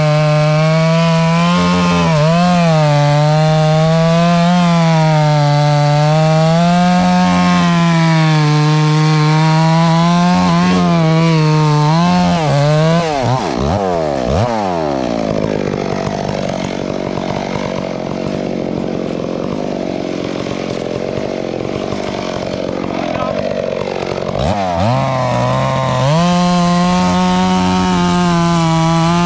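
Two-stroke chainsaw running at high revs, its note wavering. About thirteen seconds in the pitch falls and the sound turns lower and rougher for some ten seconds. Near the end it climbs back to the high, steady revs.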